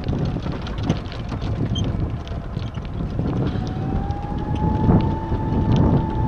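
Wind buffeting the microphone, a dense low rumble with scattered clicks and rattles. A little past halfway a steady high whine comes in, rises slightly in pitch, then holds.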